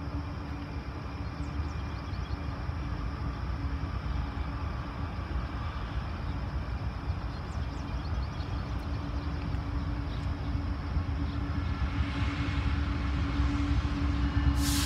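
BNSF diesel freight locomotives approaching: a low rumble with a steady engine drone that grows louder as the train nears. Near the end there is a short, sharp burst of hiss.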